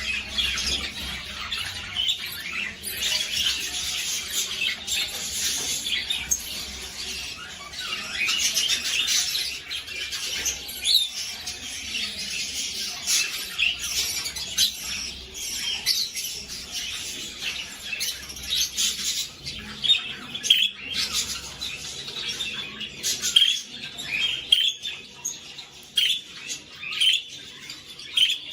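Budgerigars chirping and chattering, a dense run of short high calls and squawks that never lets up.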